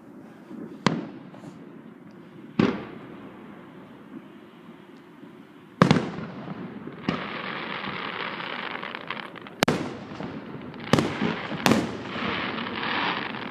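Aerial fireworks shells bursting: about seven sharp bangs at uneven intervals, with a continuous crackling from about halfway through.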